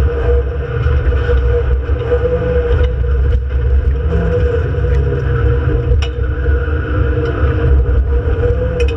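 Renault Clio Sport 2.0's four-cylinder engine running as the car is driven hard on track, heard inside the stripped race car's cabin as a steady, loud drone with heavy low rumble. The pitch dips and rises briefly about four seconds in.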